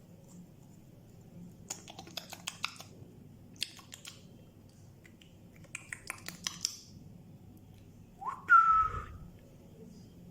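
African grey parrot whistling: one whistle rising quickly and then held briefly, the loudest sound, about eight seconds in. Before it come three short bursts of sharp clicks and crackles.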